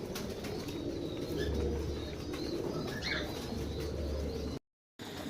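Domestic fancy pigeons cooing continuously, with a few short, higher chirps over it; the sound cuts out completely for a moment near the end.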